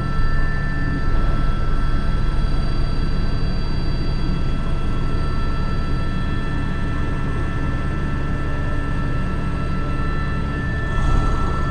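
Airbus H125 (AS350 B3) helicopter in flight, heard from inside the cockpit: a steady turbine and gearbox whine at several pitches over the low drone of the rotor.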